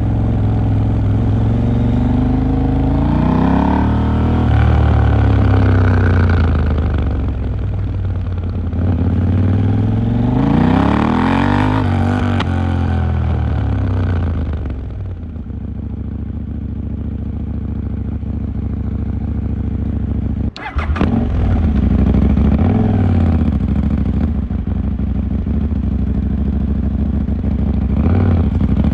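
KTM 890 Duke R's parallel-twin engine pulling away twice, its pitch rising and then falling as the bike slows. It then settles to a steady idle, with a short sharp knock about two-thirds through and a couple of brief throttle blips.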